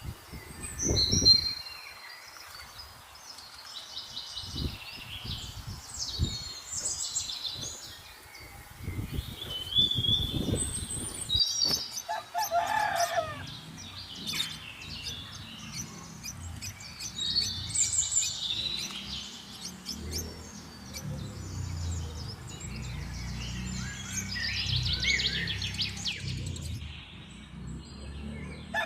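Small birds chirping and twittering in repeated short high calls. A rooster crows once near the middle, and a low thump comes about a second in.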